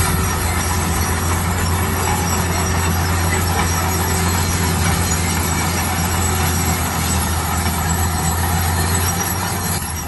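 Heavy diesel construction machine running steadily: a deep engine drone under a constant broad rumble and rattle of working machinery.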